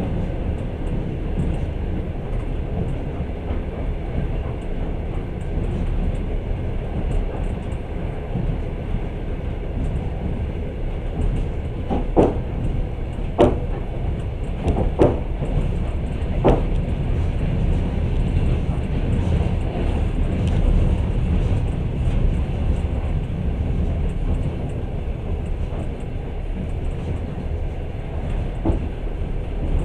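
Passenger train running along the track, heard from inside the carriage: a steady low rumble, with a few sharp clacks a little before halfway through and one more near the end.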